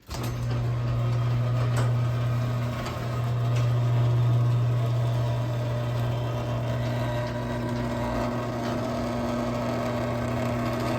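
LiftMaster 1/3 horsepower chain-drive garage door opener running as it raises the big door: a steady, even motor hum that starts suddenly.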